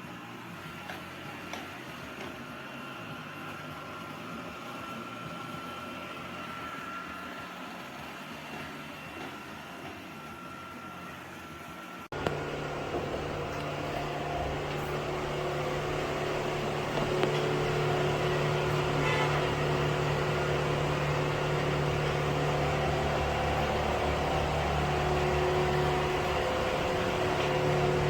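Lubluelu L20 robot vacuum running with a steady whirring hum from its suction motor and brushes. About twelve seconds in the sound cuts abruptly to a louder, lower hum.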